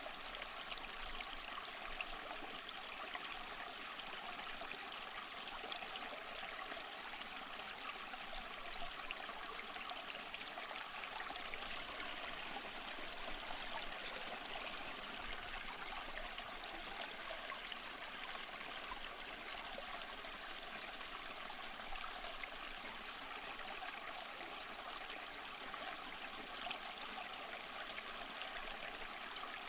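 Waterfall: falling water rushing steadily, with a bright splashing hiss and little low rumble.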